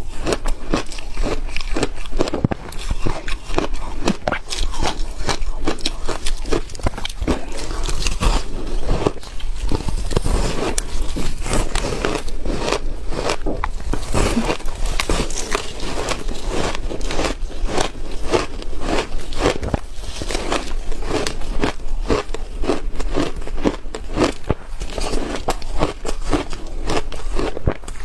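Ice frozen with passion fruit being bitten and chewed close to the microphone: a dense, unbroken run of sharp crunching and cracking as the ice breaks up between the teeth.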